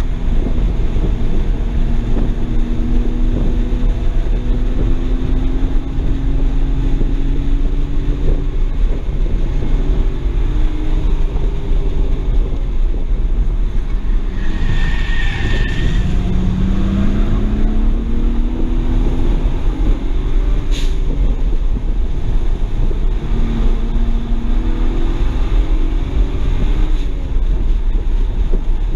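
Cabin sound of a 2007 BMW 335i's twin-turbo inline-six under hard driving: the engine note rises in pitch again and again as the car accelerates, with steady road and wind noise underneath. About halfway through there is a brief higher-pitched noise.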